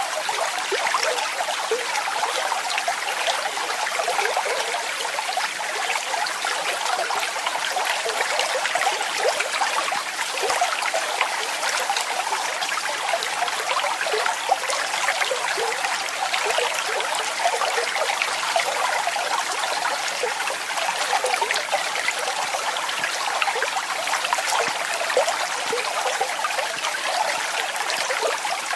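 Falling water splashing steadily: a dense, even wash of small splashes with no deep rumble.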